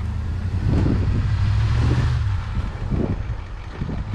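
Truck engine running under load with tyre and trail noise, louder for the first two seconds or so, with a few jolts as the truck bumps over the rough trail.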